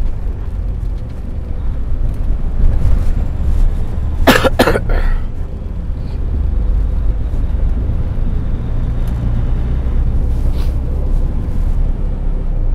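Steady low rumble of a semi truck's engine and road noise heard inside the cab while driving without a trailer. About four seconds in, the driver gives a brief, loud cough.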